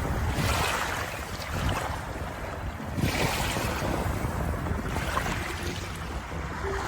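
Sea waves washing in and drawing back, swelling and fading in slow surges every few seconds.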